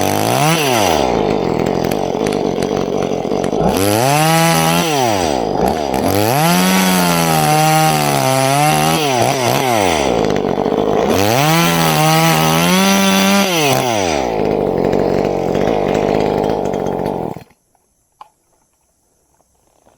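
Two-stroke chainsaw revving up to full throttle and dropping back about four times, then stopping abruptly near the end.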